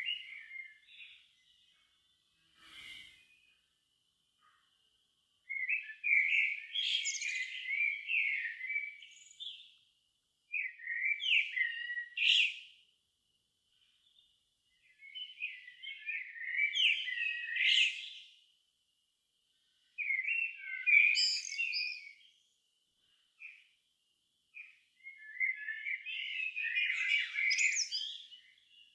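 A songbird singing in phrases of two to four seconds, each a quick run of warbling, twittering notes, separated by pauses of a second or two, five phrases in all.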